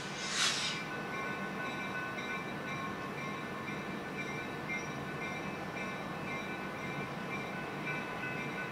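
Distant train approaching, a steady hum with faint steady tones over it. A brief hiss about half a second in is the loudest moment.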